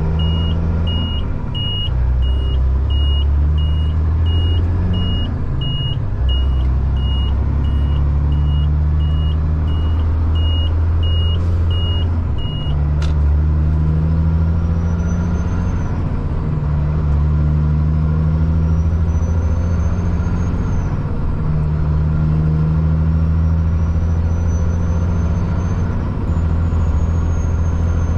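Caterpillar C-15 diesel in a Kenworth truck pulling through the gears, its drone dipping at each shift every four to five seconds. From about halfway through, a high turbo whistle rises in each gear and drops at the shift, loud because the turbo is straight-piped. A steady beeping, about one and a half a second, runs through the first half.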